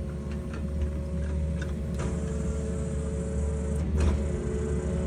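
Excavator's diesel engine running steadily with a steady whine as its hydraulic auger attachment bores a pier hole, with a few sharp knocks, the loudest about two and four seconds in.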